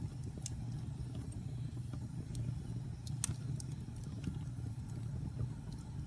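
Wood fire burning in a fireplace: a low steady rumble with scattered sharp crackles and pops, the loudest about three seconds in.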